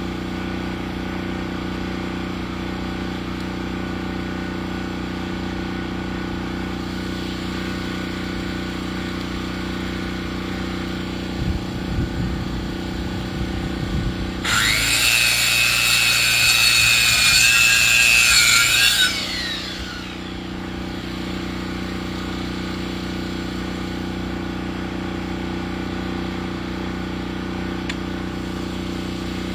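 Sawmill engine running steadily. About halfway through, a few low knocks are followed by the saw cutting into wood for about four and a half seconds with a loud, high whine, which falls in pitch as the cut ends.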